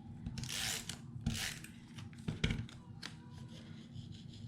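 Paper being handled: two short rustles of paper sliding in the first second and a half, then a couple of sharp taps or clicks about two and a half seconds in.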